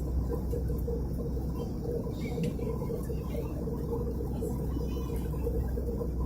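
Steady low rumble of cabin noise inside an Airbus A320 in flight: engine and airflow noise heard from a passenger seat.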